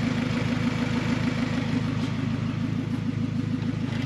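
Turbocharged Honda H-series four-cylinder engine idling steadily at operating temperature.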